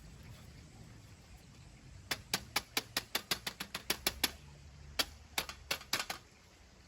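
A quick run of light, hard clicks and taps from handling cold, burnt-out campfire charcoal and metal fire-stand gear. About four or five clicks a second, starting about two seconds in and thinning out near the end.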